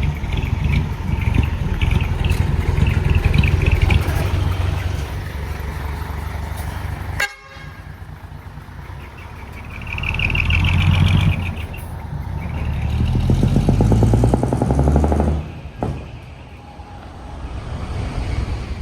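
Isuzu Forward truck's diesel engine running through a split exhaust manifold with almost no muffling. It drops off abruptly about a third of the way in, then is revved up twice.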